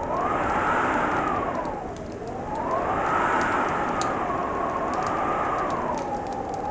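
Winter wind howling in slow gusts, its whistling pitch rising and falling every couple of seconds, over a fireplace crackling with scattered sharp pops.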